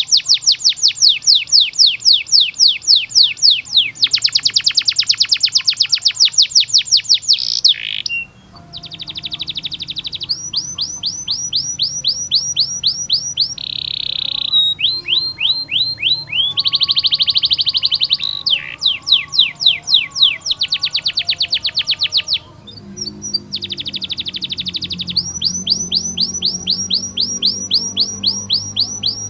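Domestic canary singing long rolls: fast trains of repeated sweeping notes, one trill type giving way to another, with short breaks about 8 seconds in and again about 22 seconds in. It is master song used to tutor young canaries.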